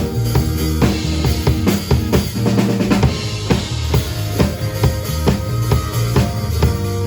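Live band music with a prominent drum kit: steady bass drum and snare hits under sustained pitched instruments.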